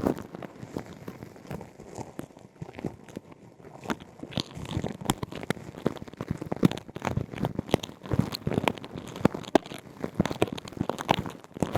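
Close-miked ASMR ear-cleaning sounds: a dense, irregular crackling and scratching, as of a tool working inside a microphone's ear canal. It thins out briefly about two seconds in and grows busier after about four seconds.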